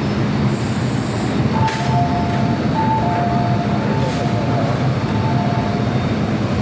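MTR M-Train rolling stock humming steadily, with a short hiss about half a second in. From under two seconds in, a two-tone beeping alternates high and low for about four seconds: the kind of warning chime an MTR train sounds before its doors close.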